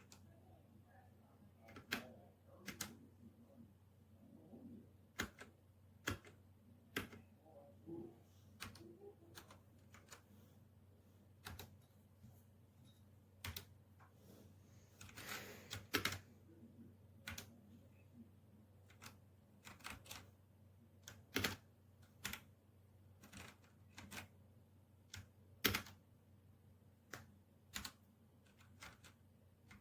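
Keys of a Redragon K617 Fizz 60% mechanical keyboard being pressed one at a time: sharp separate clicks at irregular intervals about a second apart, with a quick run of keystrokes near the middle.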